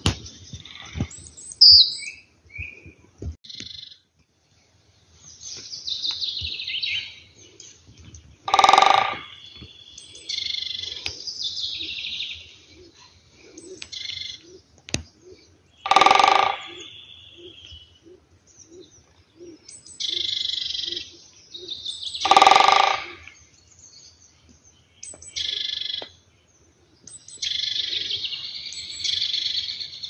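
Small songbirds singing and chirping in woodland, with three loud, harsh, short calls about seven seconds apart standing out above the song.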